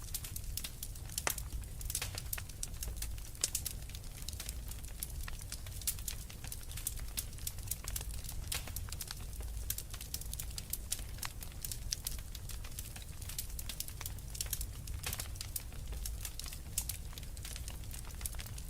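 Wood fire in a fireplace crackling: dense, irregular pops and snaps over a low, steady rumble.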